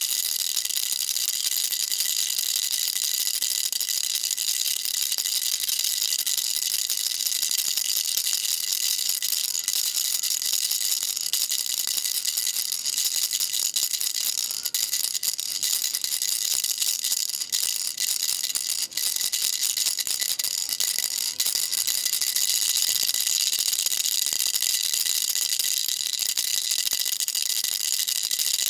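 Baby rattle shaken continuously, a dense, steady, high-pitched rattling of small beads with only a few brief dips in the middle.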